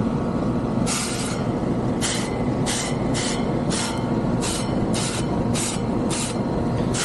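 Running air-conditioner condensing unit, its fan and compressor giving a steady rumble, with short hissing spurts of water sprayed onto the condenser coil, about one to two a second from about a second in.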